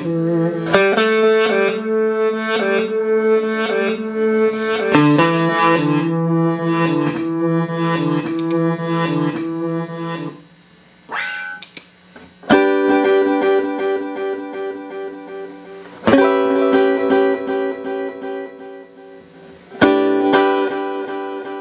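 Clean electric guitar played through a Boss DD-8 digital delay pedal into Roland JC-120 amps. A run of quickly repeated picked notes lasts about ten seconds, then comes a short pause, then three strummed chords, each left to ring and die away.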